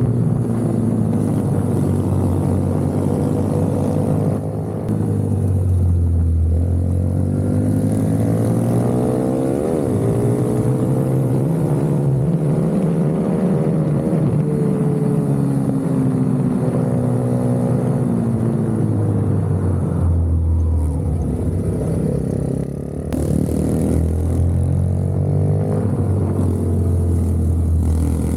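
Racing minibike engine heard onboard, its note rising and falling over and over as the throttle is opened and closed around the track, with brief drops in loudness about five seconds and twenty-three seconds in.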